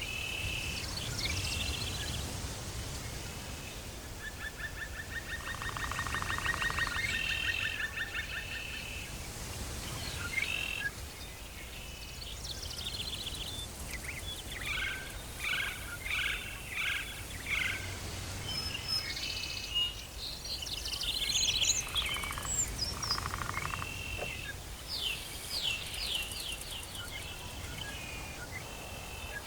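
Tropical forest ambience: several birds calling, with repeated short whistles and a buzzing trill between them, over a low steady rumble.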